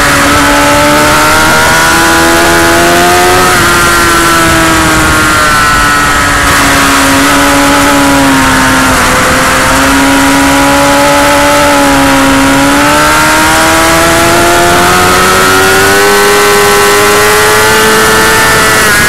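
Loud motorcycle engine at speed on a racetrack, heard from onboard: its pitch falls and rises with the throttle through corners and drops sharply about three and a half seconds in, over a steady hiss.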